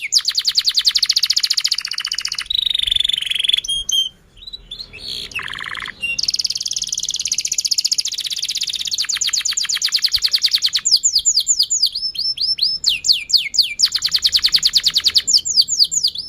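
Domestic canary singing a long, loud song. It alternates rapid trills of repeated high notes with phrases of falling whistled notes, about four a second, and breaks off briefly about four seconds in.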